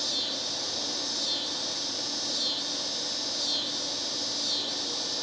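A steady chorus of insects, swelling and fading about once a second, over the faint steady hum of a Fedders 5800 BTU window air conditioner's rotary compressor running.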